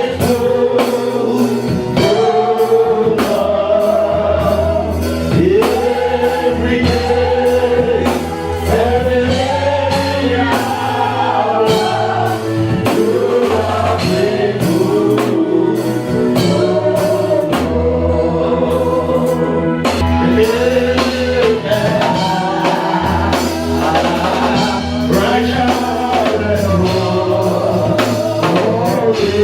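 Gospel worship song: voices singing over a band with a steady bass line and drums.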